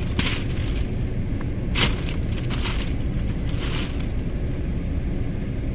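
Steady low rumble of road and engine noise inside a moving car's cabin, with several brief hissing swishes.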